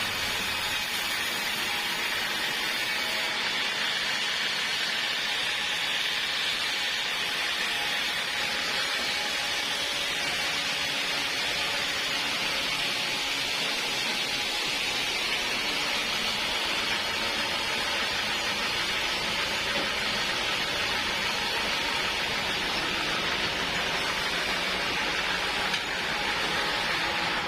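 Portable sawmill cutting through a log: a steady, unbroken hiss of the saw blade in the wood, holding at one level throughout.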